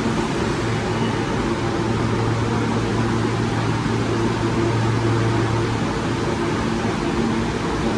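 Steady low machinery hum with a few steady tones above it and an even hiss, the constant mechanical drone of a subway station at track level. It does not rise, fall or break.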